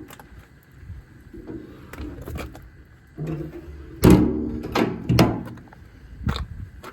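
A series of knocks and clunks, like a door or compartment being handled, loudest about four seconds in and again a second later.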